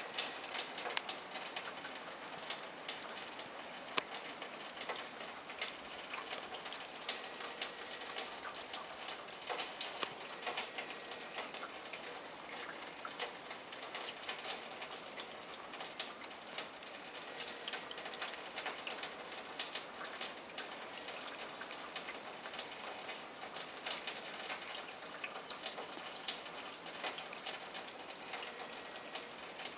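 Steady patter of many small, irregular drips and ticks from wet falling snow and meltwater landing on leaves and surfaces.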